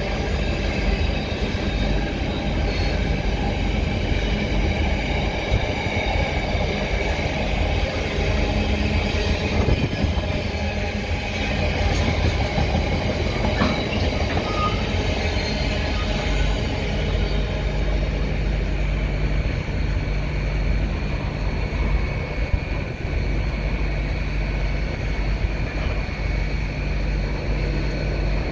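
Diesel train running steadily with a constant low engine hum.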